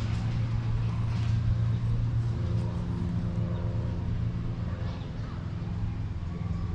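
Engine of a miniature park-railway locomotive running steadily with a low hum.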